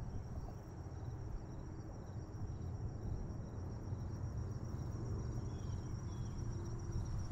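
A steady chorus of insects in the marsh, a continuous high-pitched trill that doesn't break, over wind rumbling on the microphone.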